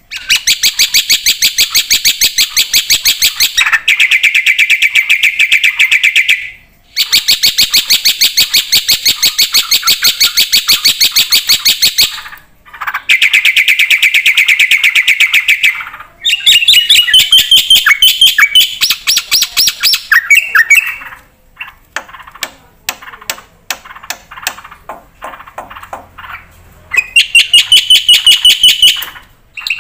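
Black-winged myna (jalak putih) in full song: long runs of rapid, chattering repeated notes several seconds each, separated by brief pauses, then a spell of scattered clicking notes before a last rapid run near the end.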